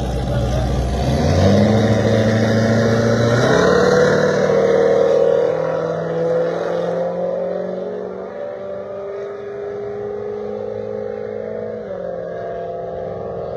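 Car engines accelerating hard down a drag strip, their pitch climbing in steps, loudest in the first few seconds, then quieter and steadier as the cars move away.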